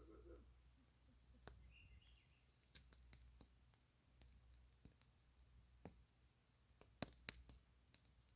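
Campfire wood crackling with scattered sharp pops, the two loudest coming close together about seven seconds in.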